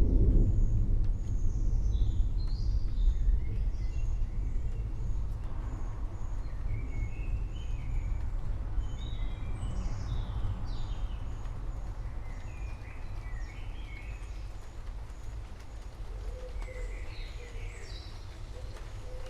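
Low rumble of distant thunder slowly dying away, with several birds chirping and calling over it. One bird repeats a short high note about twice a second.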